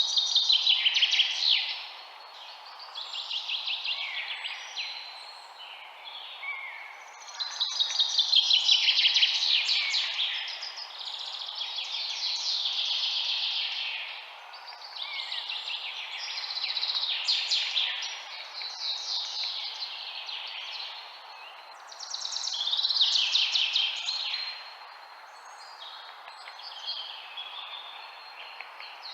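Birds singing: a run of fast, high chirps and trills, one phrase after another every few seconds, over a steady hiss.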